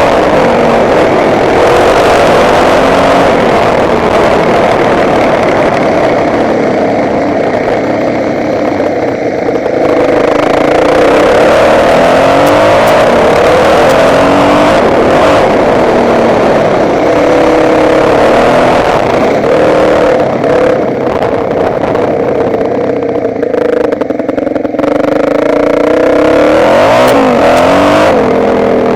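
Motocross bike engine running hard, its pitch climbing and dropping again and again as it accelerates and shifts gears.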